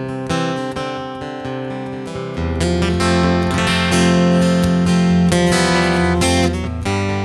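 Acoustic guitar playing a song's instrumental introduction, picked and strummed chords, with a fuller low bass coming in about two and a half seconds in.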